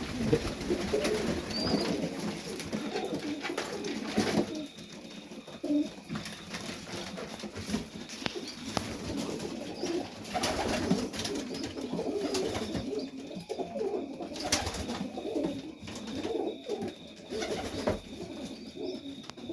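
Several domestic pigeons, Serbian highflyers, cooing in a small loft, their low warbling calls overlapping throughout, with a few sharp knocks from the birds moving about.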